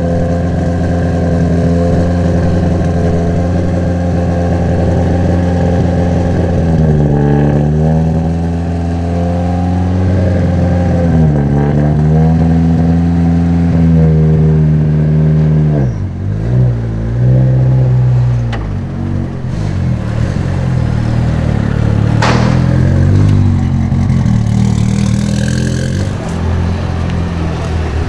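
Car engine idling at a steady note, its revs sagging and picking back up twice, then a different engine note about halfway through; a single sharp knock near the end.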